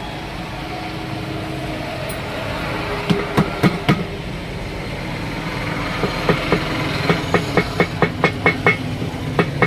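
Hammer blows ringing on metal during a tyre change: three strikes, then a fast, even run of blows at about four a second. A steady engine hum runs underneath.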